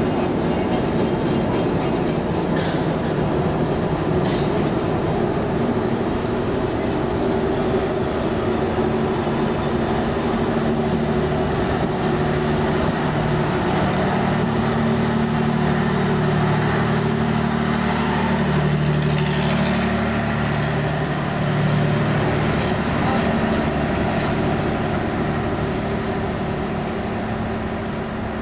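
Passenger train running at night, a steady rumble and rattle of wheels and coach bodies on the rails, with a low hum that grows stronger in the middle and fades again.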